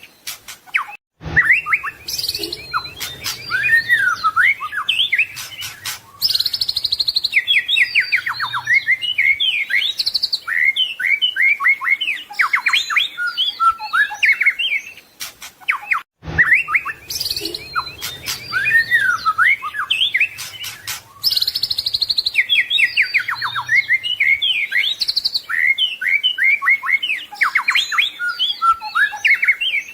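White-rumped shama (murai batu) singing a varied song of rapid gliding whistles, trills and chattering phrases, packed with the imitated calls of other birds (isian). The same passage repeats about 15 seconds apart, and there is a brief break about a second in.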